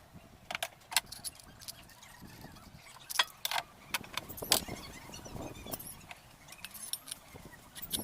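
Irregular metallic clicks and clinks of small parts and tools being handled, with a few louder knocks about three and four and a half seconds in.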